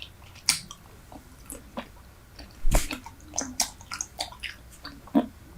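Super Bubble bubble gum chewed right against the microphone: wet, sticky smacks and clicks at irregular intervals, the loudest about halfway through.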